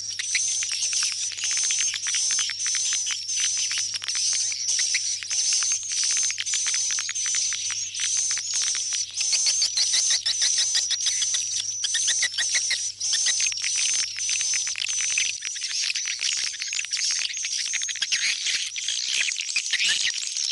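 Swiftlets twittering: dense, rapid high chirps repeating about twice a second without a break, the recorded call played at swiftlet houses to lure the birds home to roost.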